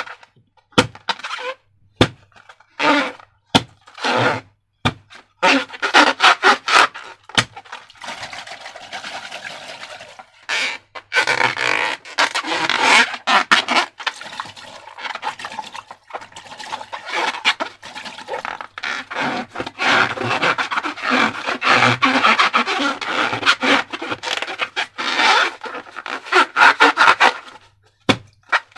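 Slime being handled and mixed: a few separate sharp clicks and snaps in the first seconds, then a long stretch of dense, crackly squishing, rubbing and scraping that stops shortly before the end.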